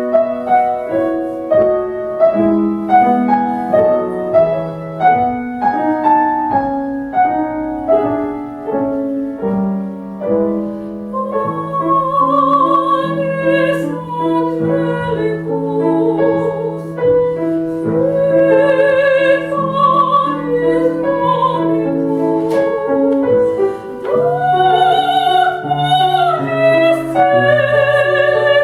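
Grand piano playing a classical introduction, joined about twelve seconds in by a female voice singing in operatic style with vibrato over the piano accompaniment.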